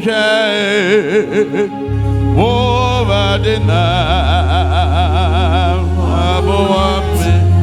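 Worship singing: a voice sings a slow melody with wide vibrato. Sustained low bass notes come in about two seconds in.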